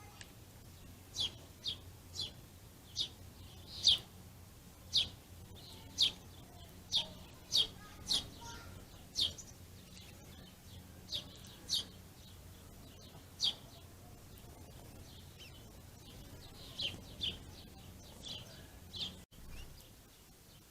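Small songbirds at a ground-feeding flock giving short, sharp single chirps, irregularly spaced at about one a second with a few quick pairs, over a faint steady low hum.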